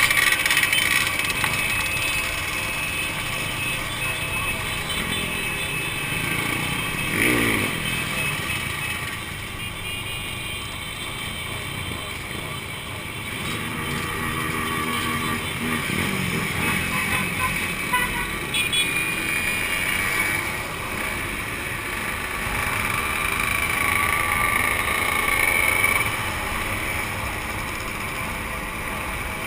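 Two-stroke motorcycle engines running, their pitch sweeping up sharply a couple of times as the throttle is opened.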